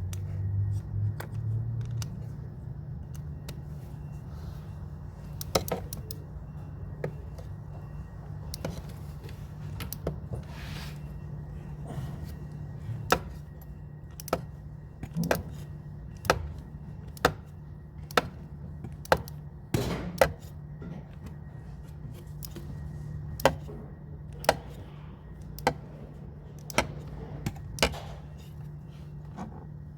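Sharp metallic clicks of a hand wrench tightening the DSG transmission oil filter housing, coming irregularly and more often in the second half, some about a second apart, over a steady low hum.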